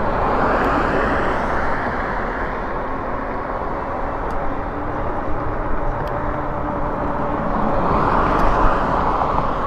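Road traffic heard from a moving bicycle, with a steady rush of wind and road noise. A vehicle passes about a second in and another near the end, each swelling up and fading away.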